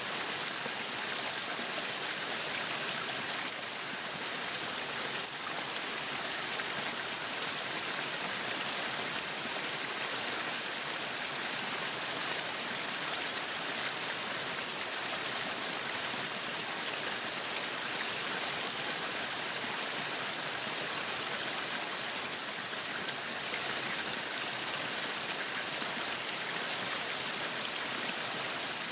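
Meat sizzling steadily on a yakiniku grill, a dense, even crackling hiss.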